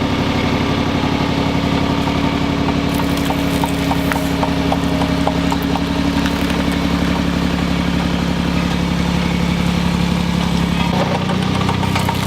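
Road roller's engine running steadily, its note changing about eleven seconds in, with a few faint clicks over it.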